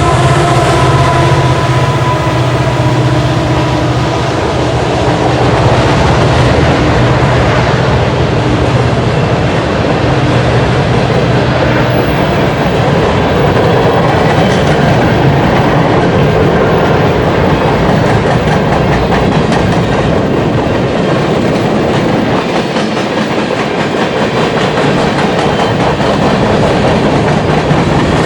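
Freight train's cars rolling past, with clickety-clack of wheels over rail joints and steady rumble and rattle. For the first few seconds a steady engine drone runs under it and fades away.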